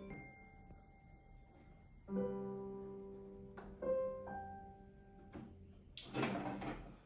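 Slow, soft piano music: sparse held notes and chords, a new one every second or two. Near the end, a short breathy rush of noise.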